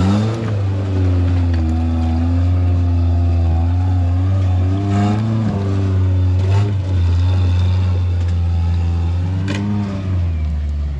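Off-road truck engine running hard under load on a rock-crawling climb, its revs rising and falling with the throttle. The truck is climbing in high gear only, with no low range in the transfer case, so the clutch is being slipped.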